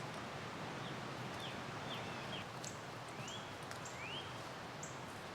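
Songbirds calling over a steady background hiss: a handful of clear whistled slurs, some falling and most rising, mixed with short high chirps.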